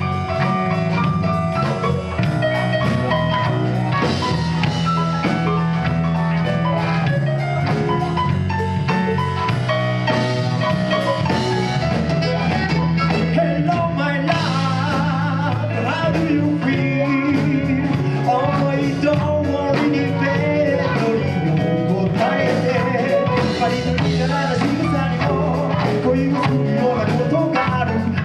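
Live band playing an upbeat rock and roll number, with a steady bass and drum beat under a wavering sung or played melody line.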